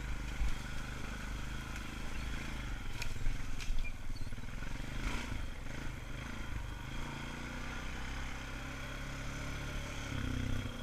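ATV engine running steadily at a slow trail pace, with a few short clicks partway through.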